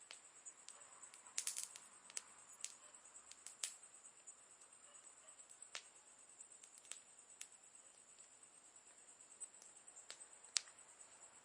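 Campfire crackling quietly: irregular sharp pops and snaps of burning wood over a faint steady hiss, with a quick cluster of snaps about a second and a half in and the loudest single pop near the end.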